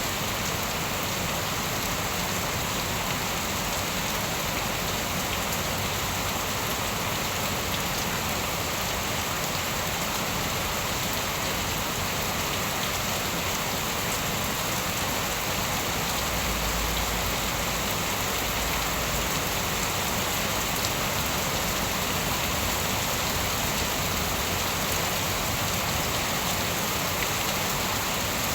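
Steady rain falling, an even hiss of drops on surfaces with a few sharper drop ticks scattered through it.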